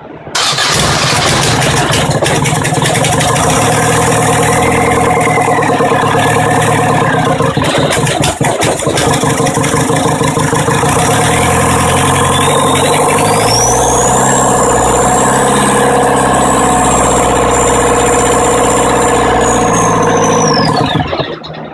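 VW 1.9 TDI (AHU) diesel engine revved up and held at high revs, with a loud high whistle. About halfway through, the revs climb further and the whistle rises sharply in pitch and holds. Near the end it falls away as the engine drops back. The whistle is the sign of a turbo judged bad.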